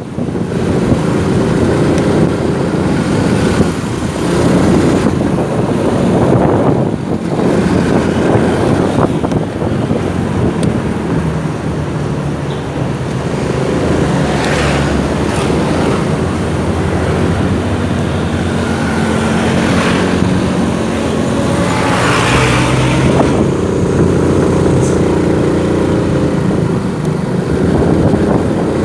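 Motorcycle engine running on the road, its pitch rising and falling with the throttle, amid street traffic and wind on the microphone. Two louder rushing swells, about halfway through and again a little later, sound like vehicles passing close by.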